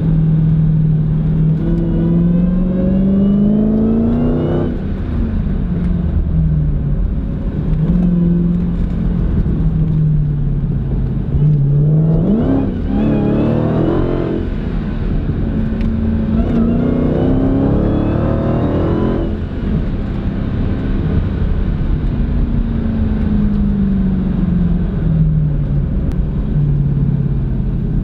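Dodge Challenger SRT Hellcat's supercharged 6.2-litre V8 heard from inside the cabin under way, pulling hard three times with the pitch climbing and then dropping abruptly as the throttle lifts or the gear changes, then slowly winding down near the end over a constant low road rumble.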